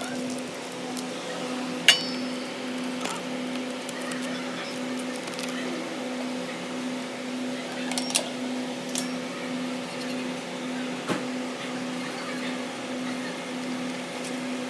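A steady mechanical hum that pulses about twice a second, with a few sharp metallic clinks. The loudest clink, about two seconds in, rings briefly.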